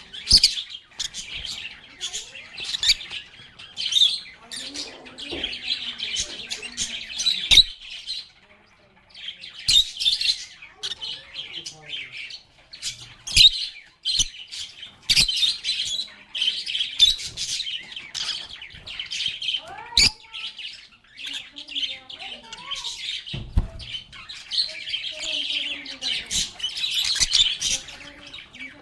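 A group of lovebirds chirping and chattering with quick, high-pitched calls and an occasional squawk, broken by sharp clicks and a short lull about eight seconds in.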